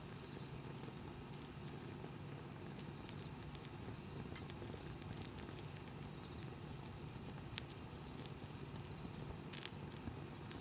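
Wood campfire burning with a steady soft crackle, and a few sharp pops from the burning wood, two close together near the end.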